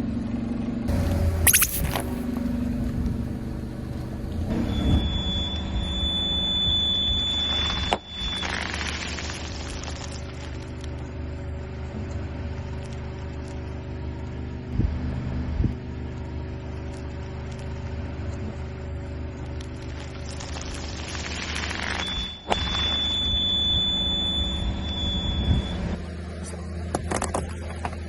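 A machine running with a steady hum. A high-pitched whine comes in twice, about three seconds each time, with a few short cracks between.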